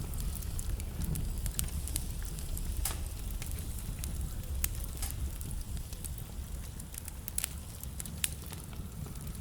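Wood fire in a fireplace crackling, with irregular sharp pops from the burning logs over a low, steady rumble of the flames; a few pops stand out louder than the rest.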